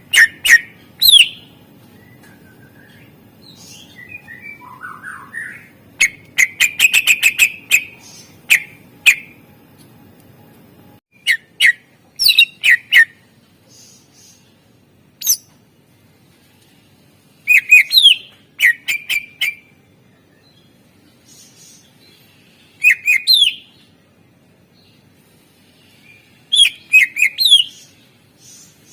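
Green leafbird (cucak ijo) singing loud, separate phrases of sharp whistled sweeps and rapid chattering note series, with pauses of a second or more between them.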